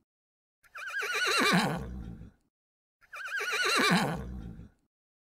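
Horse whinnying twice, two identical calls about a second apart. Each is a quavering neigh that falls in pitch and dies away over about a second and a half.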